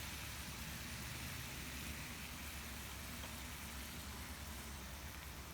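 Steady hiss of food sizzling on a hot iron griddle plate after sauce has been poured on, with a constant low rumble underneath.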